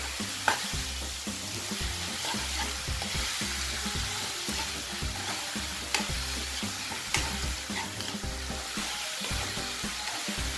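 Beef ribs with ginger and onion sizzling in a nonstick wok as they are stirred with a metal slotted spoon, which scrapes and knocks against the pan a few times. Brown sugar is caramelizing onto the meat.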